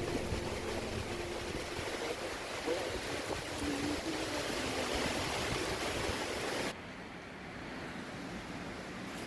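Steady rushing of a stream, cutting abruptly to a quieter, softer hiss about two-thirds of the way through.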